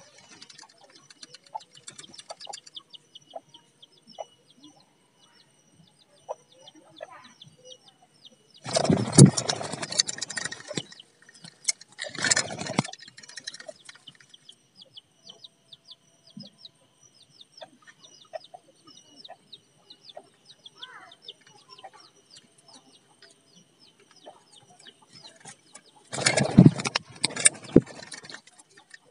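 Betet parakeet giving loud, harsh calls in three bursts, two close together near the middle and one near the end, over a steady high chirping with rapid ticks.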